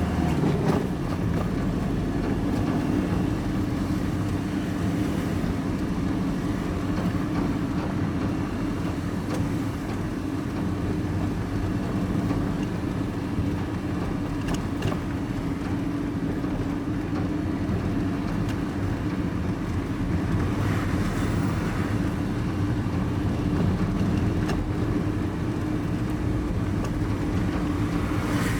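Engine and road noise heard from inside a vehicle's cab while driving: a steady drone with a constant low hum.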